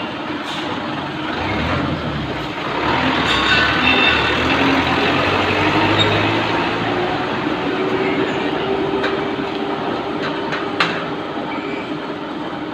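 Steady noise of a moving vehicle, with a tone that rises slowly midway and a few sharp clicks near the end.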